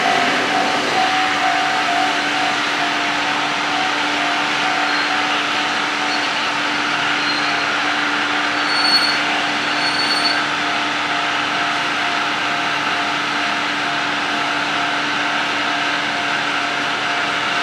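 Diesel-hauled train rolling slowly to a stop at a station platform and then standing, with a steady mechanical hum throughout. Two brief high chirps come about nine and ten seconds in.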